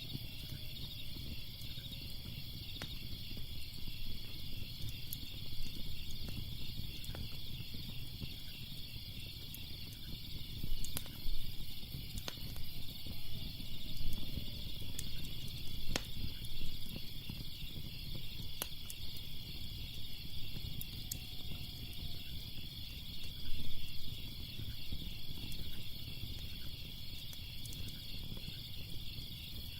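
Crackling fire with scattered sharp pops over a low rumble, set against a steady, pulsing chorus of crickets.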